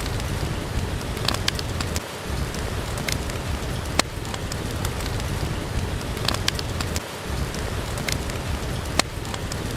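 Steady rain, with sharp pops and crackles from a wood fire in a fireplace. A loud pop comes about every five seconds.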